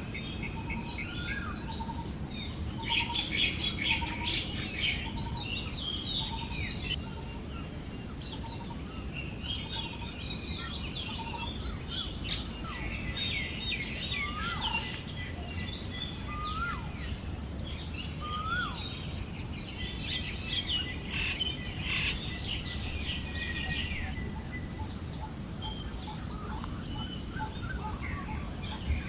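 A chorus of forest birds chirping and calling, busiest in two flurries a few seconds in and past the middle. One bird repeats a soft note over the first few seconds. Under the birds run a steady high hiss and a low rush of breeze.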